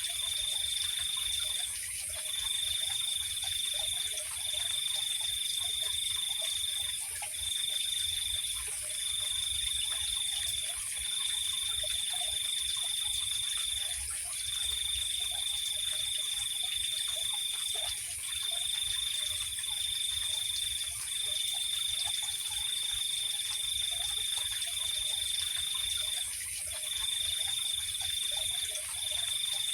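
Night insect chorus: a high, even trill that stops briefly and starts again every one to four seconds, over a constant higher hiss of more insects, with faint short calls scattered lower down.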